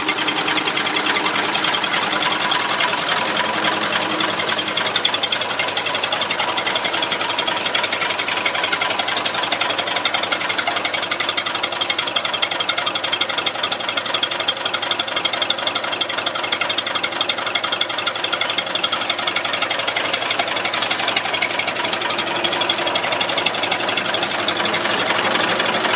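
Massey Ferguson 230 tractor engine idling with a fast, even clatter just after a cold start in freezing weather, running smoothly, 'purring like a kitten'.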